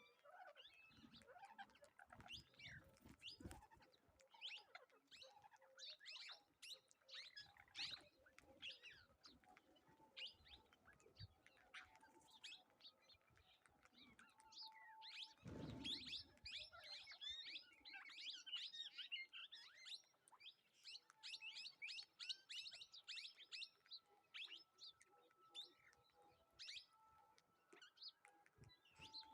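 A flock of birds chirping continuously at a feeding spot, many quick overlapping high calls, with one louder sound about halfway through.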